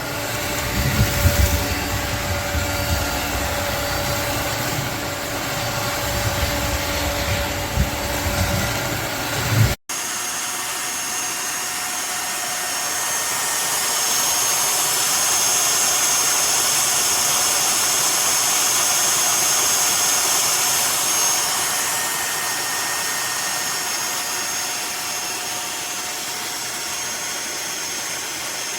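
Eureka cordless wet/dry floor vacuum running with a steady motor whir. There is an abrupt cut about ten seconds in, after which the motor noise carries a steady high whine.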